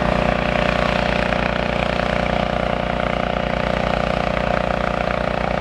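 Demolition excavator's diesel engine running steadily as the machine moves about, with a low, even throb and a steady whine over it.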